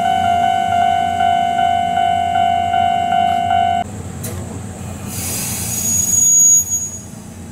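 An electronic level-crossing warning bell rings in quick repeated strokes, then cuts off abruptly about four seconds in. Soon after, an Ohmi Railway electric train sets off, and its wheels squeal high and hissing for a couple of seconds.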